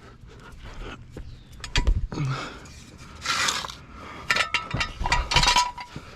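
Metal floor jack being rolled and shoved into place under a car: irregular clanks and rattles, with a couple of short scraping sounds.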